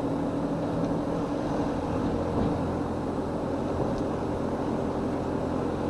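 Car driving at a steady speed: a constant low engine hum with road noise, heard from inside the cabin.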